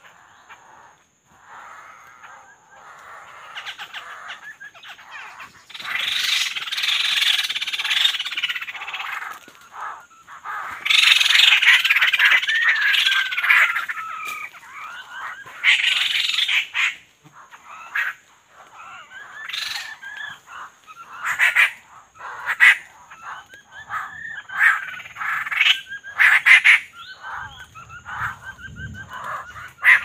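Wild forest birds calling: quick chirps and short rising and falling whistled notes, broken by loud harsh chattering bursts about six, eleven and sixteen seconds in. A thin steady high-pitched whine runs underneath.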